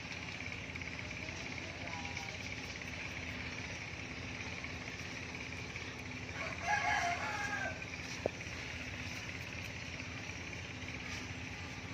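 A rooster crows once, a single drawn-out crow about halfway through, over a steady high-pitched background hum. A single sharp click follows shortly after.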